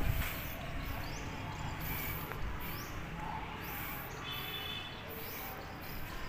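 Birds chirping in the trees, short high chirps repeating about once a second, with a brief whistled call about four seconds in, over a steady outdoor background.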